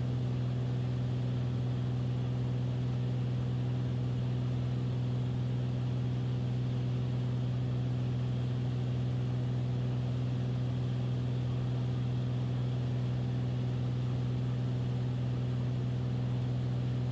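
Beechcraft Bonanza's piston engine and propeller running at a steady power setting, heard from inside the cockpit as an even, low drone. This is the airplane established on the approach.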